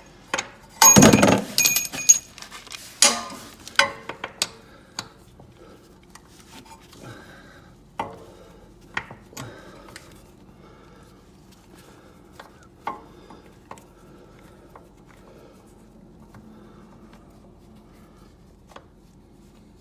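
Metal hand tools clattering and clinking: a socket, extension and ratchet being handled and fitted onto a lawn mower's oil drain plug. A loud ringing clatter about a second in, a few more clinks shortly after, then scattered single clicks and knocks.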